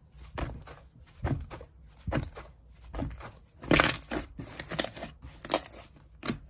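Hands playing with slime: irregular crackling clicks and squishy pops, the loudest cluster a little under four seconds in.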